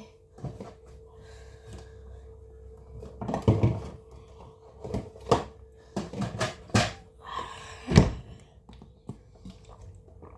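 Kitchen handling sounds: a series of knocks and thunks, with the loudest about 8 seconds in, as items and containers are set down and put away, over a steady hum.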